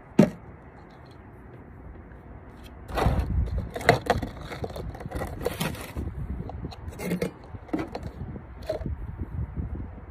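Handling noises: a sharp click at the start, then irregular scraping, crackling and clicks as things are moved about.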